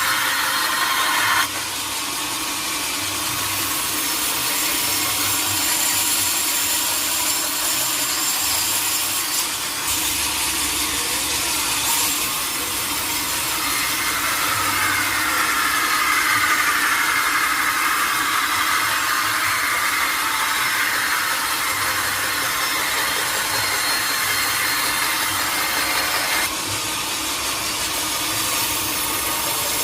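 Sawmill saw cutting through a teak log: steady, continuous sawing noise with a higher whine that wavers in pitch through the middle of the cut.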